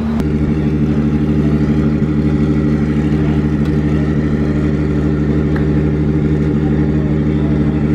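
A car engine idling, a steady unchanging drone with no revving.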